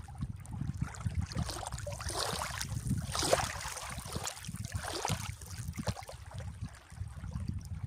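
Sea waves washing in, with one swell of surf from about two to three and a half seconds in, over a low, choppy rumble of wind on the microphone.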